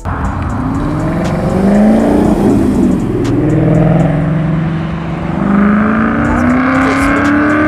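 Performance car engines accelerating hard, their pitch rising as they pull. A cluster of rising revs comes in the first half, then one long steady climb in pitch near the end.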